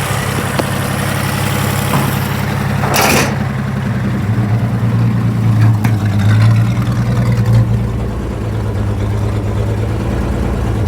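WW2 International KS4 truck engine running at a steady idle, its speed lifting a little and settling again in the middle, with a short burst of hiss about three seconds in.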